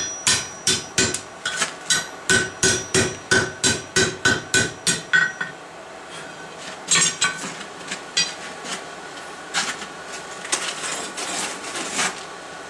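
Blacksmith's hand hammer striking steel on an anvil, each blow ringing: a steady run of about three blows a second for roughly five seconds, then a short pause and a few spaced single blows.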